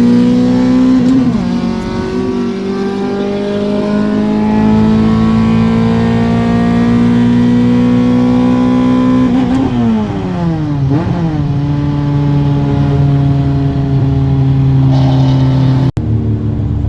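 Car engine held at high revs and climbing slowly under load during a pull. The pitch then drops sharply about halfway through, as on a lift-off or gear change, and the engine runs on at a steady lower pitch before a sudden cut near the end.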